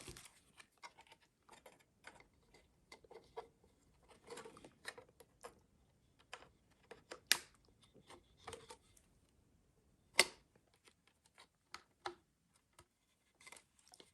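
Faint plastic clicks and rubbing as a blade is pushed into the hub of a small screw-in socket ceiling fan, the hub turning under the push. Scattered light clicks, with two sharper ones about seven and ten seconds in.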